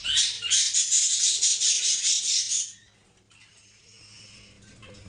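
Many small caged parrots chattering together in a dense, shrill din that cuts off sharply a little under three seconds in, leaving faint high calls.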